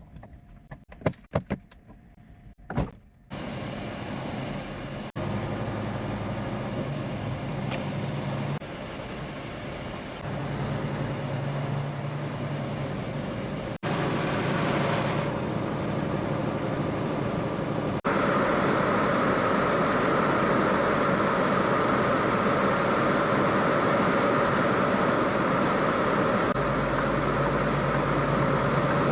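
Semi-truck driving, heard from inside the cab: a steady engine drone under road and wind noise. The sound jumps abruptly in level and tone every few seconds, as one short clip cuts to the next. A few sharp clicks come in the first three seconds.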